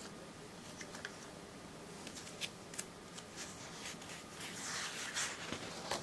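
Paper pages of a ring-binder catalog being handled and turned: soft rustling with scattered light clicks, louder rustling about three-quarters of the way through.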